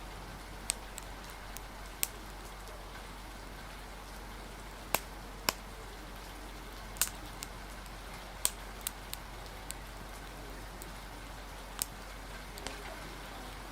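Fire crackling with sharp, irregular pops, the loudest pair about five seconds in, over a steady hiss of rain.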